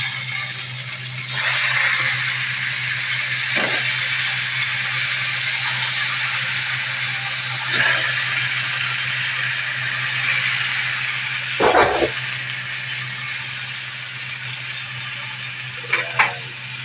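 Chicken frying in hot oil in a pan, a continuous loud sizzle that eases slightly over time, with a few short knocks against the pan.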